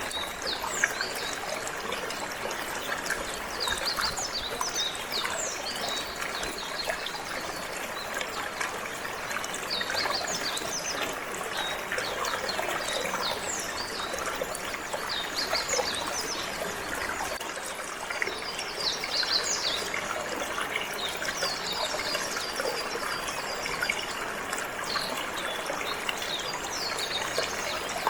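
Water trickling and flowing steadily, with a canary's quick chirps and short trills coming and going over it throughout.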